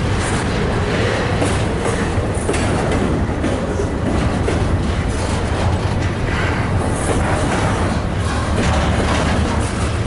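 Double-stack intermodal freight train rolling past close by: steel wheels on the rails give a steady loud rumble, with frequent clacks as the well cars' wheels cross rail joints.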